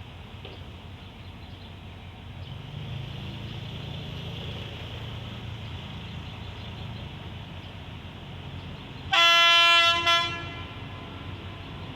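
Alsthom AHK diesel-electric locomotive pulling out, its engine rumble building about two seconds in. About nine seconds in it sounds its horn twice: a longer blast, then a short one.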